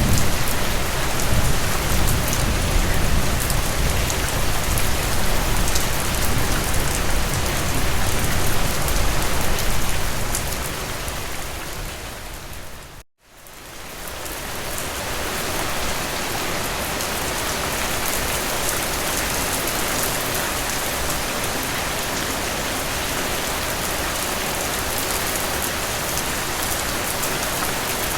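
Heavy rain falling, a steady dense hiss with a low rumble in the first part. About halfway through it fades out to a moment of silence and fades back in, steadier and with less rumble, an edit between two rain recordings.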